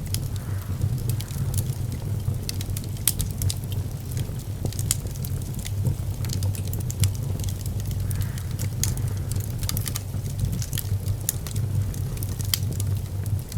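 Wood fire burning in a fireplace, crackling with many small irregular pops over a steady low rumble.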